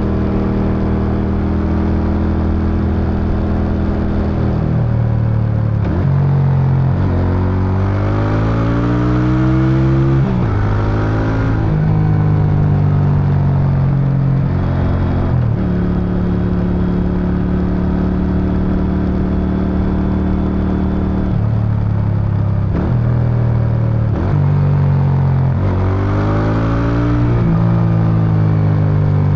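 Suzuki Intruder VS800's V-twin engine and exhaust on the move: it holds a steady pitch, then accelerates through the gears with the pitch rising and dropping at each shift, settles into a steady cruise, and accelerates through several more shifts near the end.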